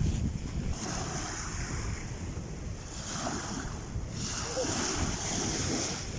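Sea waves washing in, their hiss swelling and fading a few times, with wind rumbling on the microphone.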